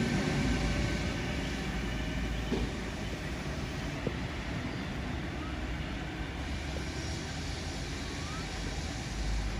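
V set double-deck electric intercity train pulling away and receding, its rumble fading steadily, with a few faint clicks along the way.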